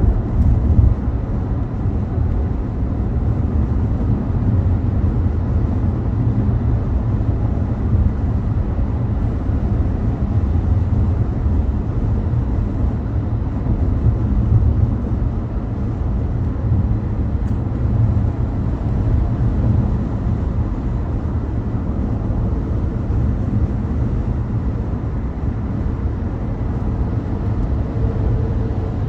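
Steady road and engine rumble of a car driving, a low drone that holds even throughout.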